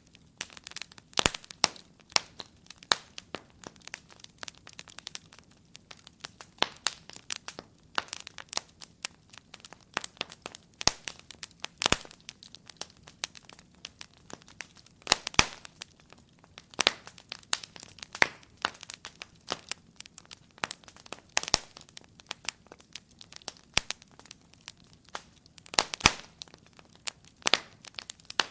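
Wood fire crackling steadily in a fireplace: many small irregular crackles with occasional louder snaps and pops.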